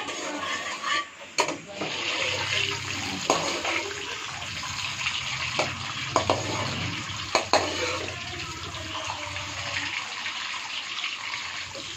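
Peeled boiled eggs sizzling in hot oil in an aluminium wok: a steady frying hiss from about two seconds in, with several sharp clinks of a metal slotted spoon against the pan.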